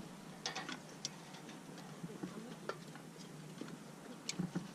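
Faint, irregular crackles and pops of food grilling over a campfire, a few scattered clicks each second.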